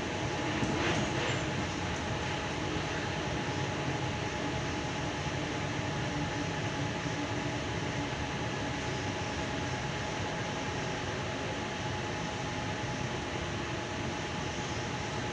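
Inside an 8-car Tangara electric train running between stations: a steady rumble of wheels on track, with a constant whine over it and a slight swell about a second in.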